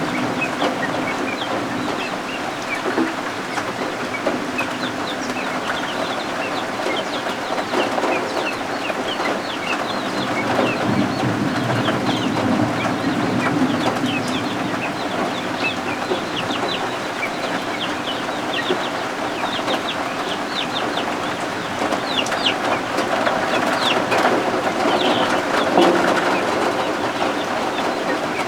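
Guinea fowl keets peeping continuously, many short high chirps overlapping, over a steady rain hiss.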